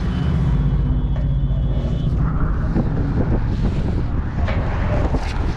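Steady low rumble of passing motor vehicle traffic, with an engine hum and a faint high whine for the first two seconds.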